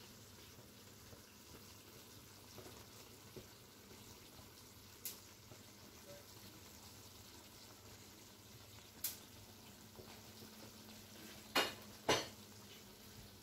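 Chicken curry sizzling faintly in a steel karahi, with a few sharp clicks of a metal spoon against the pan; the two loudest clicks come near the end.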